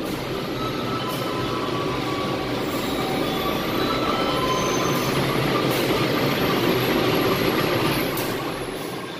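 A CC 203 diesel-electric locomotive and its train rolling into the station past the platform: a steady heavy rumble of wheels and engine with faint high-pitched squealing on top. It swells right at the start and eases off near the end.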